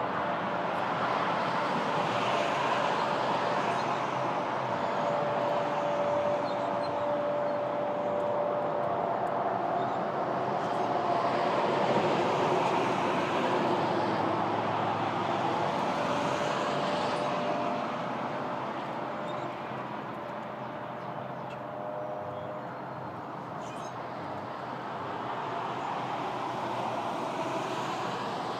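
Steady road traffic noise with a low engine hum, swelling and easing as vehicles pass, and quieter for a few seconds in the second half.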